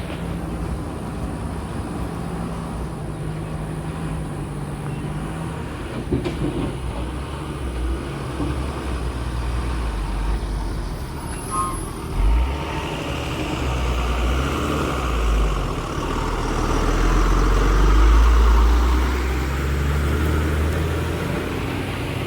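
Heavy road traffic: trucks running past on the highway, a low diesel engine rumble that grows louder in the second half.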